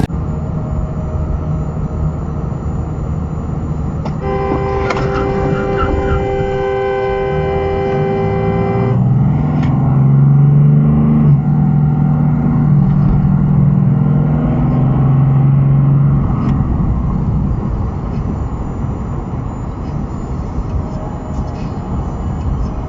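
Steady traffic and engine noise, with a car horn held for about five seconds starting about four seconds in. After the horn, a low engine drone rises and falls in pitch for several seconds, then eases back into the road noise.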